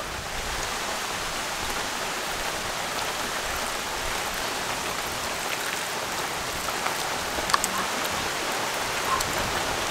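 Steady rain falling, an even hiss, with a few faint wet squelches in the second half from hands mixing yogurt into marinated mutton in a steel bowl.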